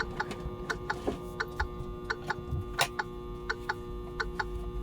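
Microwave oven running with a steady hum, over a rapid, even ticking of about four or five clicks a second.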